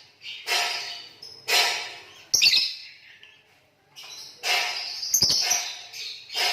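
Green lovebirds chirping in harsh, shrill bursts about once a second, with a short pause midway. Two sharp knocks come in among the calls.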